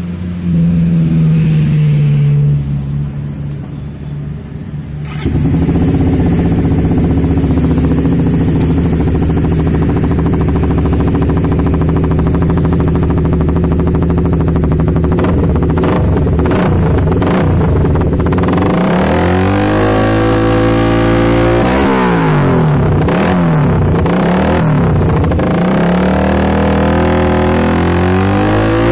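Suzuki GSX-R150 single-cylinder engine running through an aftermarket stainless full-system exhaust. It idles steadily, then from about two-thirds of the way through it is revved up and let back down again and again in quick blips.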